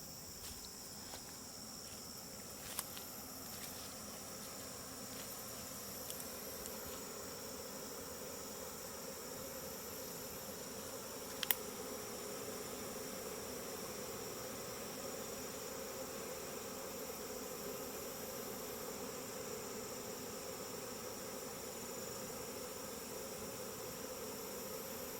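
Honeybee swarm humming steadily as the bees crowd into a hive body box, the hum growing a little louder partway through. A sharp click about eleven and a half seconds in.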